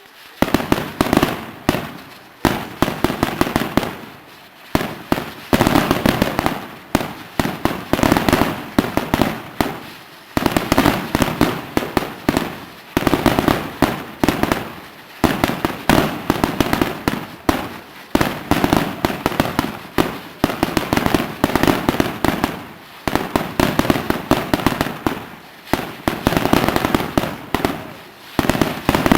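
Fireworks display: rapid, dense volleys of bangs going off one after another without a break, swelling and easing every second or two.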